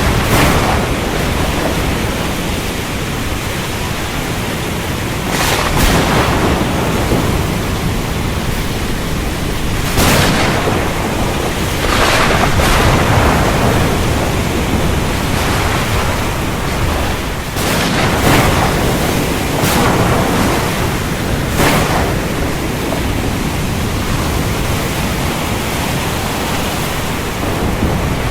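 Steady heavy rain with a constant low rumble, broken by sharp cracks of thunder every few seconds.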